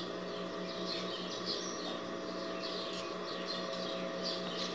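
Small birds chirping in quick short falling notes, two or three a second, over a steady electric hum.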